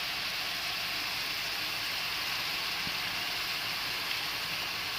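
Pineapple pieces and tomato sauce sizzling in hot oil in a frying pan: a steady, even hiss.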